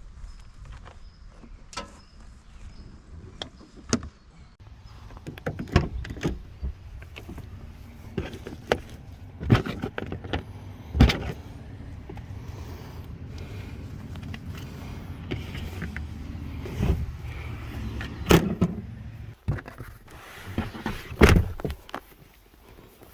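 Truck on the move: a steady low rumble with many sharp knocks and rattles scattered throughout.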